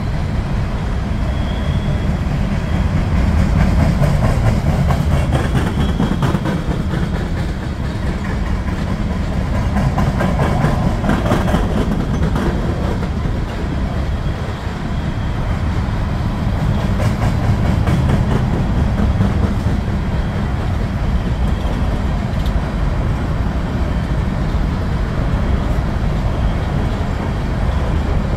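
Empty coal gondolas of a freight train rolling past: a steady rumble of steel wheels on the rails, with a run of clacking over rail joints about ten to twelve seconds in.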